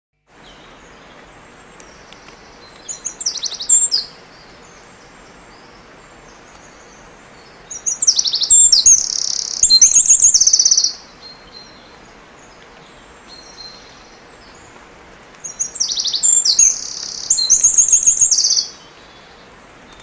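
A bird singing three phrases of rapid high chirps and trills, a few seconds in, around the middle and near the end, over a steady faint hiss.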